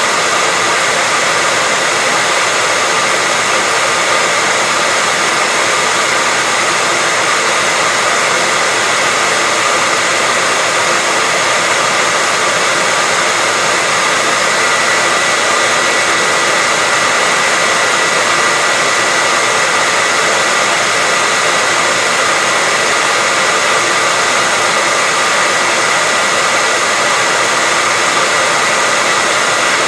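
Hair dryer running steadily: an even rush of air with a steady whine from its motor and fan, unchanging throughout.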